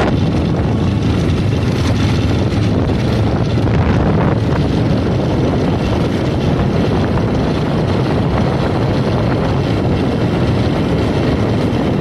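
A 220 cc motorcycle running at a steady speed under heavy wind rush on the microphone.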